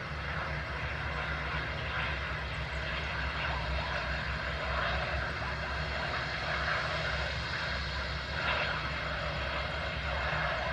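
Airbus A319 jet engines running steadily, a continuous even whine-and-hiss over a low rumble with no change in pitch.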